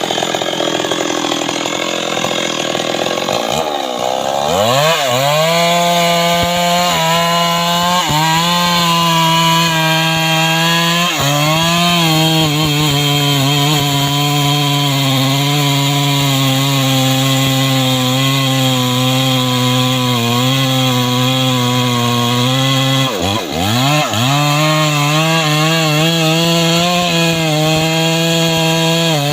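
Chainsaw running at high revs while cutting wood. The engine note sags and climbs back three times as the chain is loaded in the cut.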